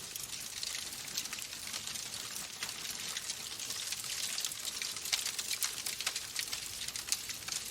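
Wood fire burning in a fireplace: a steady hiss with frequent small, sharp crackles and pops.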